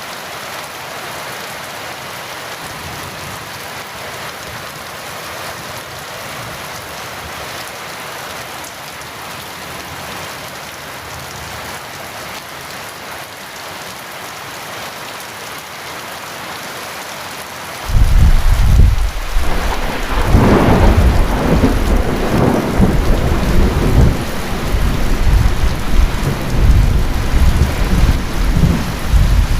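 Heavy rain falling steadily. About 18 seconds in, a loud clap of thunder breaks in and goes on rolling in deep rumbles over the rain.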